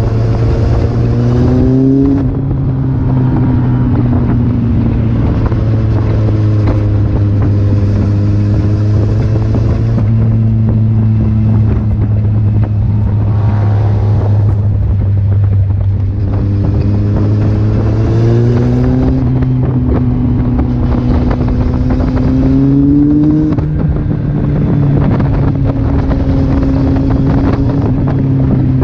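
Kawasaki Z800's inline-four engine running at speed on the road, the revs climbing and then dropping at gear changes about two seconds in and twice in the second half, with wind rushing over the microphone.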